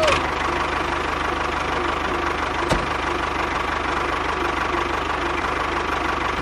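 Tractor engine running steadily at idle with a fast, even chugging. A single sharp knock comes about two and a half seconds in.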